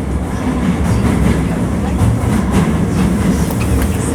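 Cabin running noise of a Hankyu 1300 series electric train with Toyo IGBT inverter drive: a steady low rumble of wheels and motors on the rails, with scattered clicks from the track.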